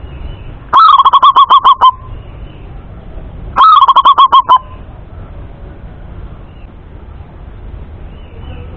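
Male zebra dove (perkutut) singing its cooing song twice: each phrase is a short rising note followed by a fast run of about seven staccato coos, the second phrase coming about three seconds after the first.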